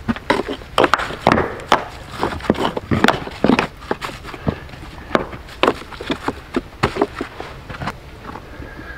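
Stones being set and shifted by hand while building a stone table: a run of sharp, irregular knocks and scrapes, two or three a second, thinning out near the end.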